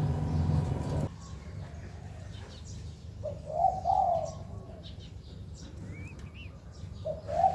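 Young spotted dove cooing: one short phrase of coos about three seconds in and another starting near the end. A low steady hum stops about a second in, and faint small-bird chirps come in between.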